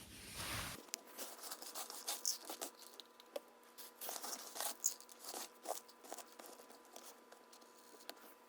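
Scattered light clicks, taps and rustles of hands handling plastic vacuum cleaner parts.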